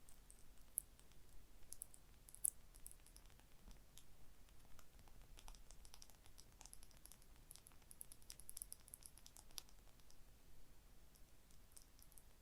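Gentle tapping and scratching on a small object, heard as a faint, irregular stream of soft clicks and ticks, with one sharper tap about two and a half seconds in.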